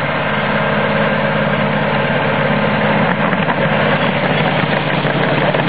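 Miniature ride-on train running, a steady engine hum, with light clicking joining in about halfway through.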